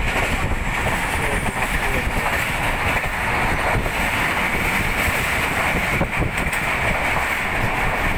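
Passenger train running at speed, heard from aboard: a steady rumble and rush of the wheels on the track.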